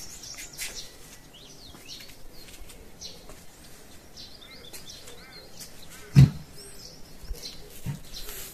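Birds chirping and calling, with one loud thump about six seconds in and a softer one near the end.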